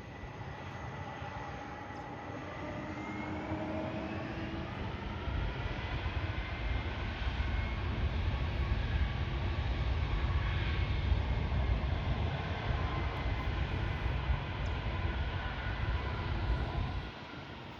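Jet airliner's engines passing, a steady rumble with whining engine tones that builds to its loudest in the second half and then cuts off suddenly near the end.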